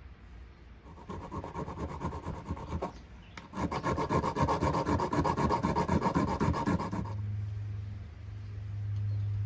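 Rapid back-and-forth scraping or rasping strokes, in two runs with a short break between, the second louder; then a steady low electric hum starts about seven seconds in.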